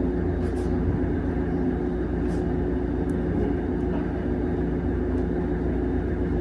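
Steady low machine hum with a constant tone, with a few faint soft ticks over it.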